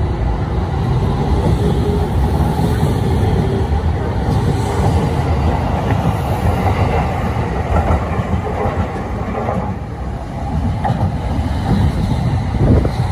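Electric commuter train moving along the platform close by: a steady low rumble of wheels on rail, with a few clacks of wheels over rail joints in the second half.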